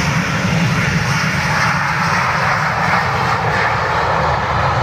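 Bombardier Global 5000 business jet's twin Rolls-Royce BR710 turbofans at takeoff power, a loud, steady jet roar with a deep low rumble underneath.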